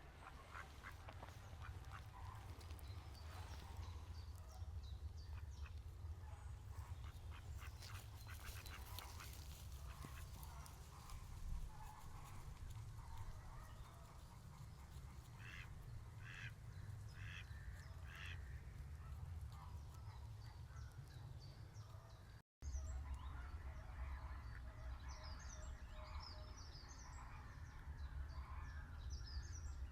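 Wetland waterfowl, ducks and geese, calling faintly, with a run of five or six calls in quick succession about halfway through, over a low steady rumble. After a cut near the end, small birds chirp.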